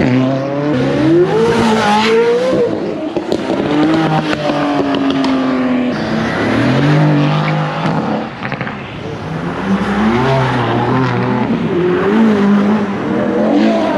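Several supercars accelerating hard away one after another, their engines revving up in rising pitch and dropping back at each gear change, with the notes of different cars overlapping.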